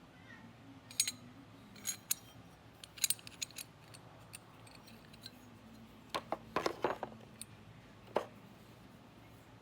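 Scattered light metallic clicks and clinks of small metal tools and parts being handled and set down. They come singly and in short clusters, busiest around the middle and again a little past the middle.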